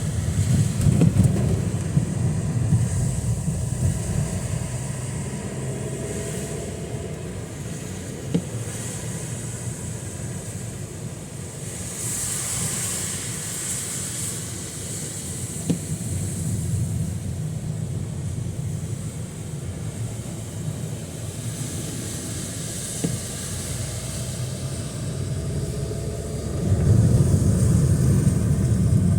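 Traffic passing on a rain-soaked street: a low engine rumble swells near the start and again near the end, with a hiss of tyres on wet road about twelve seconds in.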